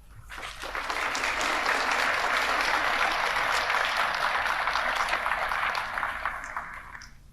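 Audience applauding after a speech, swelling up in the first second, holding steady, then dying away near the end.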